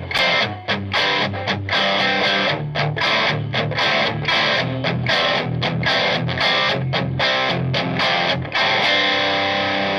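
Electric guitar with a distorted tone playing short, choppy chords in a quick rhythm, then a chord left ringing near the end.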